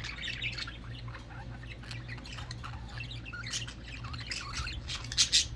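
A group of budgerigars chattering: quick, continuous chirps and warbles, with two loud, sharp squawks about five seconds in, over a steady low hum.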